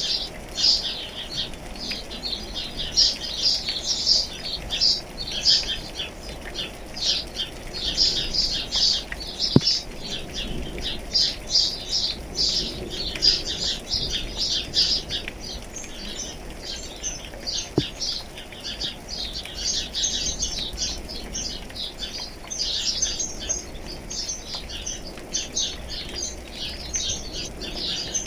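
A chorus of many small birds chirping continuously in dense, rapid, high notes, over a faint steady hiss of light rain.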